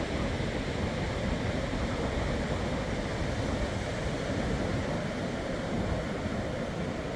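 Steady rushing noise of ocean surf and wind buffeting the microphone.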